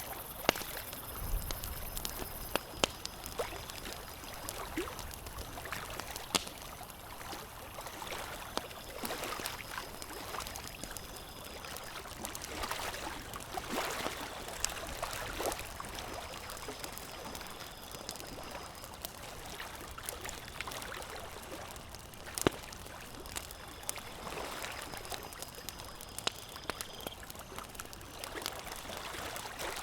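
Campfire crackling with scattered sharp pops, over a steady wash of lake water lapping that swells for a few seconds in the middle.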